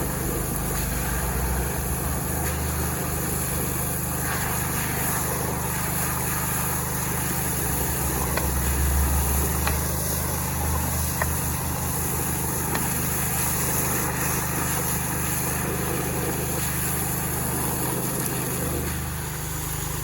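Small Robin petrol engine running steadily.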